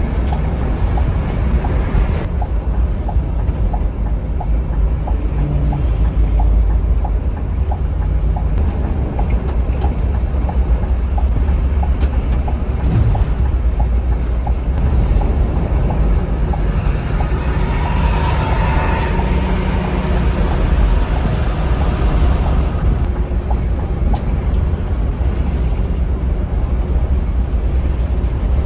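Steady low rumble of a Scania K360iB coach's rear engine and tyres at road speed, heard from inside the cabin. A light regular ticking runs through the first half, and a broader rushing noise swells and fades about two-thirds of the way in.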